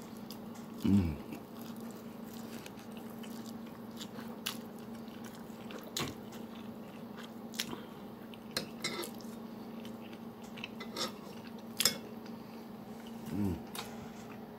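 A man chewing and biting a mouthful of ramen noodles, with scattered wet clicks and crunches. Two short low hums from his throat, about a second in and near the end, are the loudest sounds.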